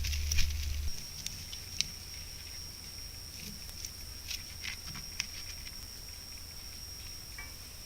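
Scattered light ticks and rustles, like something small moving in leaf litter, over a steady thin high-pitched tone. A low hum cuts off about a second in.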